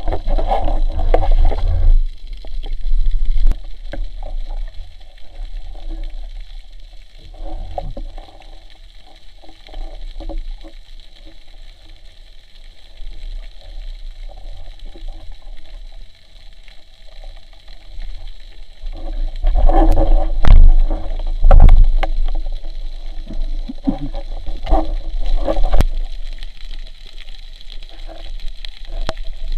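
Water gurgling and sloshing around a spearfisher in the sea, muffled, over a steady low rumble. It is louder at the start and again from about twenty seconds in.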